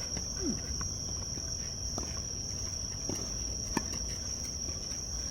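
Steady high insect drone, with a few sharp knocks of a tennis ball being struck or bouncing, the loudest about three-quarters of the way through.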